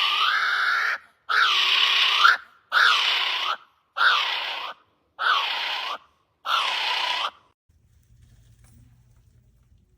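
A bird giving a run of harsh, screeching calls, six in all, each about a second long with a short gap between them. The calls stop about seven seconds in.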